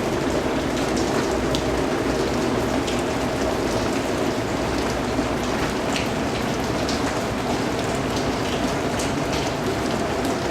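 Steady rain falling, with scattered single drops striking a nearby surface.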